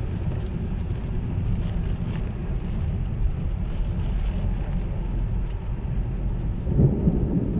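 Heavy rain falling, a steady rushing hiss with a low rumble underneath that swells louder about seven seconds in.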